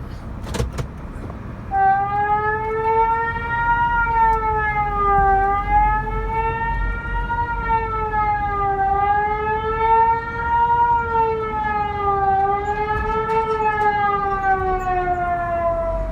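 Tornado-warning alert siren over an airport public-address system: an electronic wailing tone that slowly rises and falls about every three and a half seconds. It starts about two seconds in and cuts off near the end, between rounds of the recorded voice warning. A couple of clicks come just before it starts.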